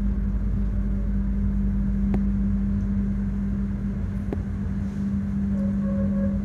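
Running noise heard inside a moving passenger train carriage: a steady low rumble with a strong constant hum, broken by two sharp clicks about two seconds apart. A faint pitched tone comes in near the end.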